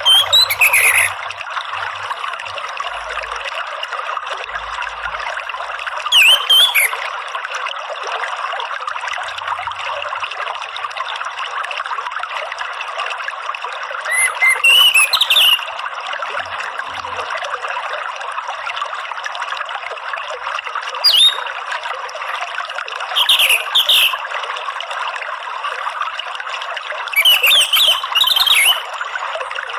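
Steady running water with short song phrases from an orange-headed thrush (anis merah). About six brief, high, quick-gliding phrases come a few seconds apart, louder than the water.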